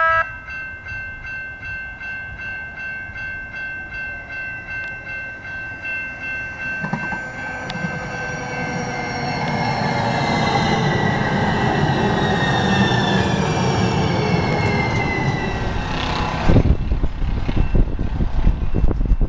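A railroad crossing bell rings steadily at about two strokes a second while a train approaches, its tones slowly falling in pitch. At about 16 seconds in the train passes close by, with a loud rumble and wheel clatter.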